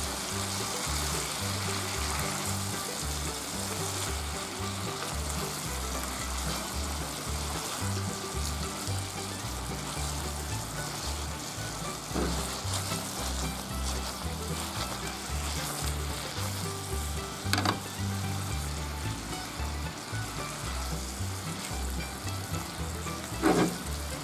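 Eggplant, tofu and pork belly sizzling steadily in a frying pan as they are stirred with a silicone spatula. Three short knocks stand out, the loudest near the end.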